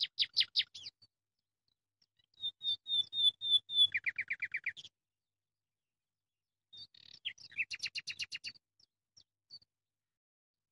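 A small songbird singing three short phrases of quick repeated chirps and trills, with pauses of a second or two between them.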